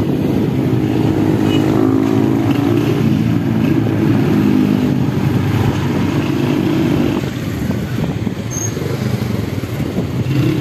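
Motorcycle engine running under way, steady for about seven seconds, then easing off and quieter as it slows.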